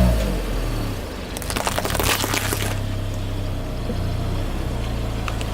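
A car tyre rolling over and crushing something brittle: a dense crackling crunch starting about a second and a half in and lasting just over a second, over the steady low hum of the car's engine. A few single cracks follow near the end.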